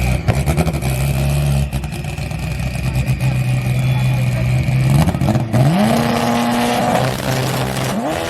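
Drag-race car engines running loudly with crackling. Twice in the second half an engine revs up and holds at high revs for a second or more before dropping back, the second time higher.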